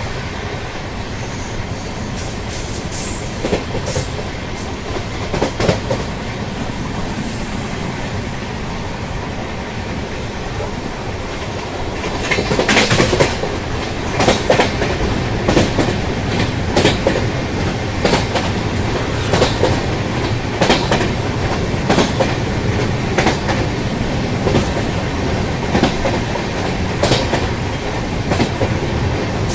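Train running fast over a bridge: a steady rail rumble with the regular clickety-clack of wheels over rail joints, which grows louder and more distinct about twelve seconds in.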